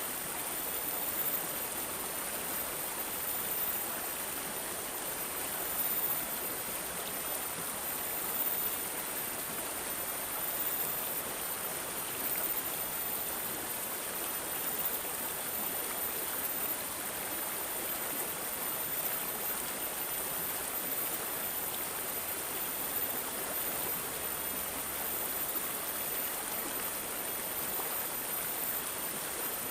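Water babbling and gurgling steadily, like a small stream, with small swells in level every few seconds.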